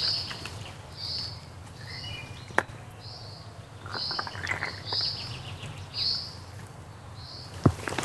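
A bird repeating a short, high call about once a second, about eight times. Two sharp clicks, one a little before the middle and one near the end, are the loudest sounds.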